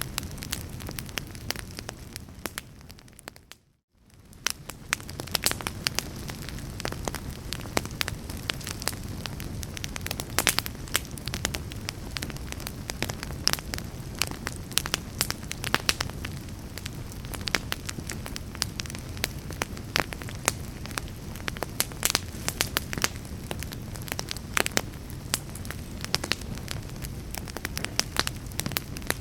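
Fireplace fire crackling: a steady low rush of flames with frequent sharp pops and snaps. About four seconds in the sound fades briefly to near silence and then swells back in.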